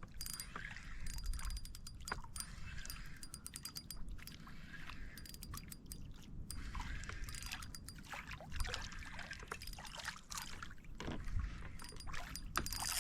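Fishing reel being wound in while a hooked fish is brought in: faint runs of rapid clicking that come and go.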